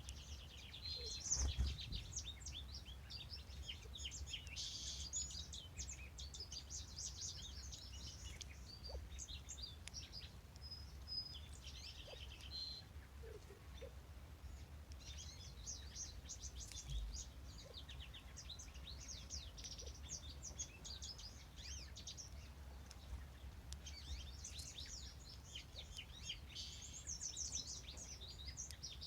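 Several songbirds singing with quick, overlapping chirping song phrases, over a steady low rumble. There is one thump about a second and a half in.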